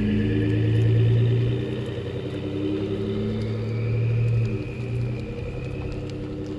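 Ford Expedition's twin-turbo EcoBoost V6 running through an SPD Performance turbo whistler exhaust: a steady exhaust note that swells twice with light revs, with a thin high whistle riding over it that rises slightly in the second half.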